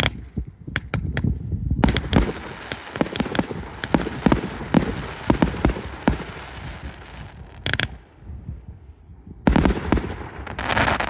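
Aerial fireworks going off: a quick series of sharp bangs with crackling, a short lull, then another burst of bangs and crackle near the end.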